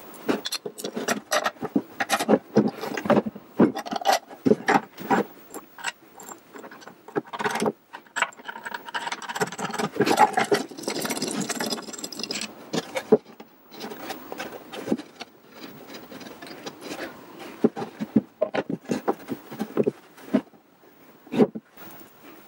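Irregular clicks, knocks, rattles and scraping of metal parts and screws being handled and fitted as a circular saw and its metal shroud are bolted to a mounting plate, with a denser stretch of rattling and scraping in the middle.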